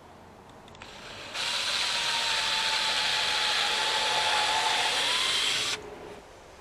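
Handheld electric power tool running for about four seconds: a steady motor whine with a hiss over it, the pitch sagging slightly in the middle, starting about a second in and cutting off abruptly.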